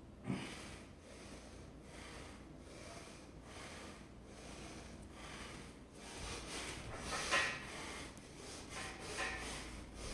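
A person breathing hard and fast in even, rhythmic breaths, with louder rubbing and shuffling noises in the last few seconds.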